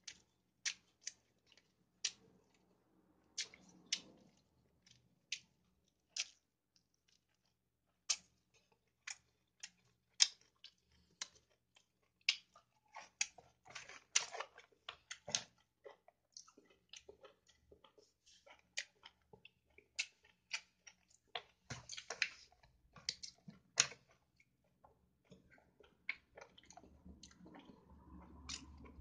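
Close-up eating sounds of a person chewing a mouthful of chicken biryani: a string of irregular sharp mouth clicks and smacks. They come in busier runs about halfway through and again past two-thirds.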